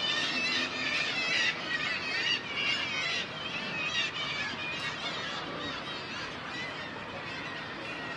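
Many gulls crying at a nesting colony: short, high, overlapping calls that are busiest over the first few seconds and thin out after that.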